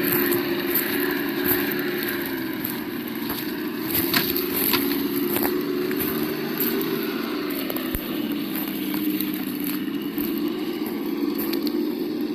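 Simulated engine sound from the sound module of an Absima Yucatan 1:8 RC crawler: a steady engine note that rises and falls slightly in pitch. Scattered sharp clicks sound over it.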